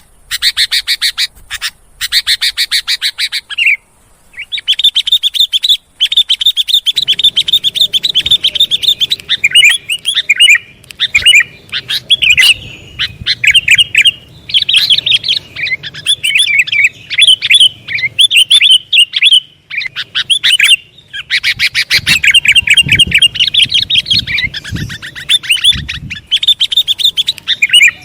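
Sooty-headed bulbul (kutilang) calls played as a lure recording for bird catching: fast runs of high chirps, broken by short pauses.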